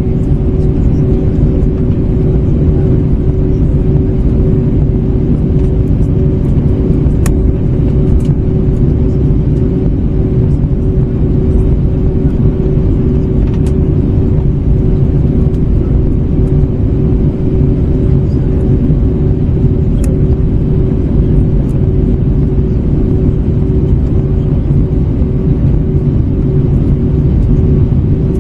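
Steady cabin noise of an Airbus A321neo with Pratt & Whitney PW1100G geared turbofans in flight: a constant deep rumble of engines and airflow with a steady hum held above it, and a few faint ticks.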